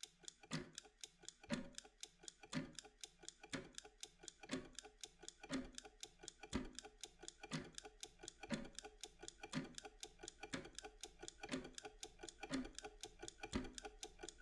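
Mechanical kitchen timer ticking steadily: quick light ticks several times a second, with a heavier tick about once a second.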